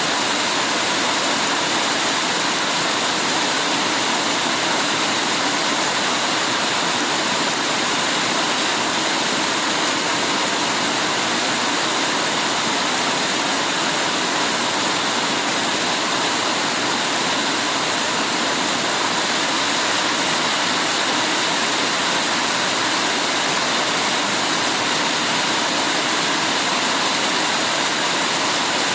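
Heavy rain falling steadily: an even, unbroken hiss with no single drops, thunder or other events standing out.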